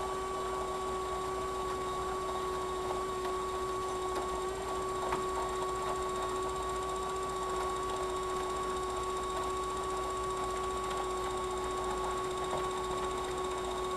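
HO-scale model train's small electric motor running at a steady speed, giving a constant two-tone whine with a few faint clicks.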